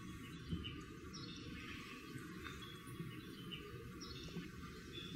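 Scattered short, high bird chirps over a steady low background noise.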